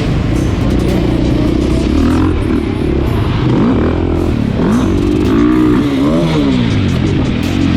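Motorcycle engine running under way, its pitch rising and falling as the throttle is worked, most clearly in the second half.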